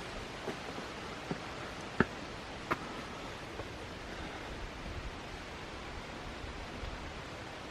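Steady rushing of a small creek, with a few sharp snaps of footsteps in the first three seconds, the loudest about two seconds in.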